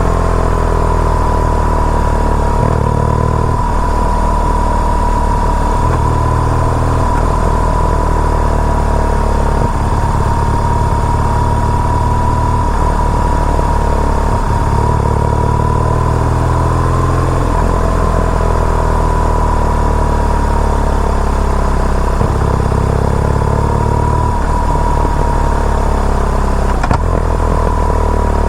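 BMW R nineT Urban G/S's air/oil-cooled boxer twin running under way, its note rising and falling with throttle and gear changes, over a steady high whine.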